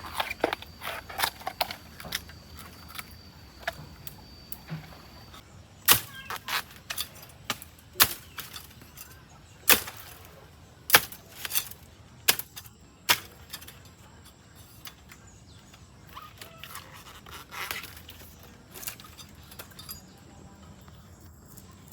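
A series of irregular sharp knocks and clicks, the loudest spread a second or two apart, with a thin steady high whine over the first few seconds.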